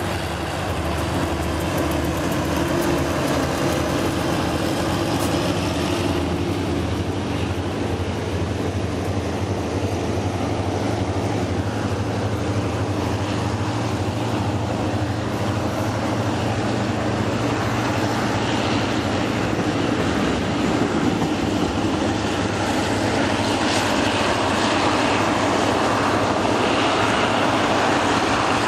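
GE CM22-7i diesel-electric locomotive's diesel engine running steadily as it passes and draws away with a container train, its drone dropping slightly in pitch about five seconds in. Behind it, a long line of flatbed container wagons rolls past on steel wheels with a rumble and occasional clacks, growing louder near the end.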